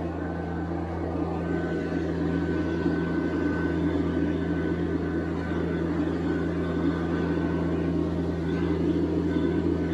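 TYM T574 subcompact tractor's three-cylinder diesel engine running steadily, with a thin high whine over its hum.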